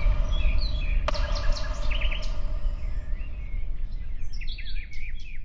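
Several small birds chirping and singing in quick, high notes over a steady low rumble, with a sharp click about a second in.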